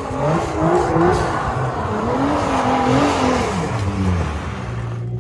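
A car engine revving up and down repeatedly under a rush of noise. About five seconds in the rush drops away, leaving a steady low hum.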